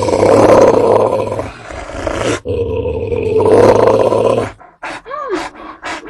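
Fierce dog growling, loud and deep, in two long stretches with a short break about two and a half seconds in; it cuts off after about four and a half seconds. A few short sharp sounds follow, with a brief whine that rises and falls.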